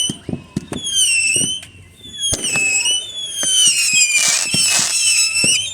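Fireworks going off: several whistling fireworks with falling whistles, mixed with sharp bangs and pops, and a burst of crackling about four seconds in.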